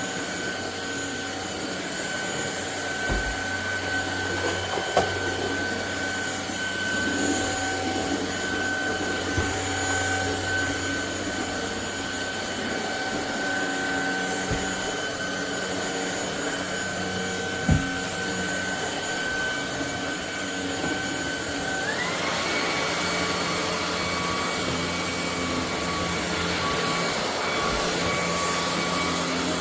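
ElecKeys K10 cordless stick vacuum cleaner running with a steady motor whine. About two-thirds of the way in, the motor speeds up and its whine glides quickly to a higher pitch and holds there. A couple of brief sharp knocks are heard along the way.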